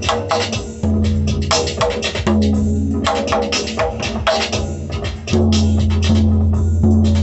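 Music played on a drum: a steady run of struck, ringing notes, about two to three a second, over low held tones that swell in about a second in, again past two seconds and again past five seconds.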